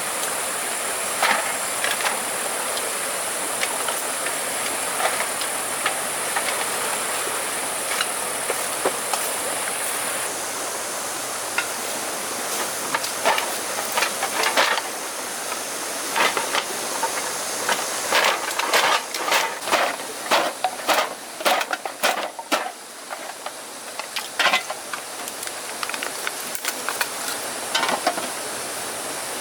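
A steady rushing hiss with irregular sharp knocks and clatters over it, coming thick and fast about two-thirds of the way through.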